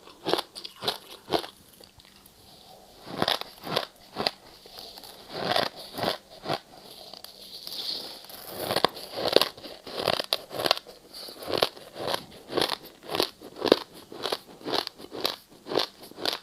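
Ice being bitten and chewed: a quick run of sharp, crisp crunches, two or three a second, with a short lull near the start.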